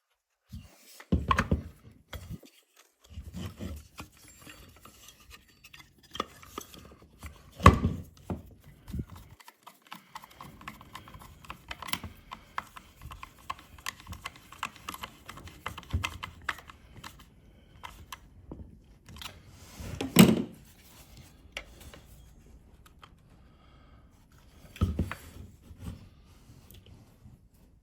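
Chainsaw parts being handled and fitted back together: scattered clinks, taps and rubbing, with a few louder knocks about a second in, near eight seconds, around twenty seconds and near twenty-five seconds.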